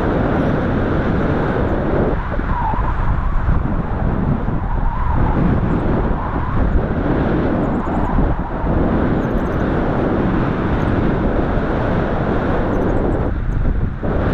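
Strong wind buffeting the microphone in flight: a loud, steady rushing noise, strongest in the low end, with small ups and downs in level as gusts of around 50–60 km/h pass.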